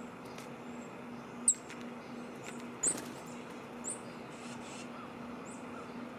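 Small birds chirping: a few short, high chirps, the loudest about one and a half and three seconds in, over a faint steady low hum.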